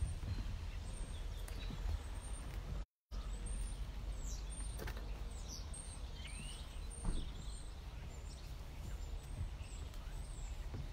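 Outdoor ambience: a steady low rumble with a few short bird chirps, some gliding up and some down. The sound cuts out completely for a moment about three seconds in.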